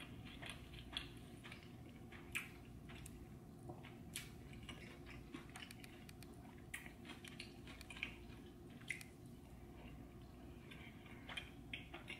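Faint close-miked chewing: soft, wet, irregular mouth clicks and smacks over a low steady hum.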